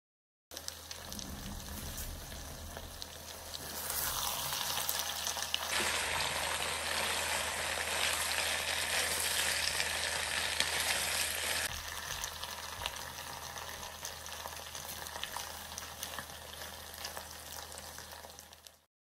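Chicken strips with peppers and onion sizzling as they fry in a non-stick wok, stirred with a wooden spatula that makes small clicks against the pan. The sizzle is louder from about four seconds in and drops back about twelve seconds in.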